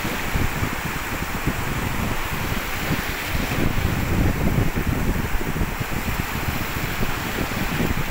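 Wind buffeting the microphone, a steady gusty rumble with sea noise beneath.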